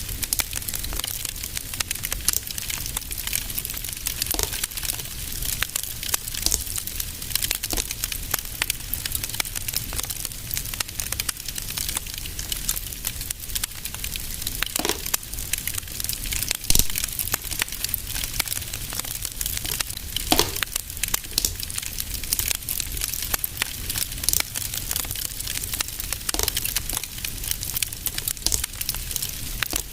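Fireplace fire crackling steadily, with a dense run of small crackles and a few louder pops scattered through.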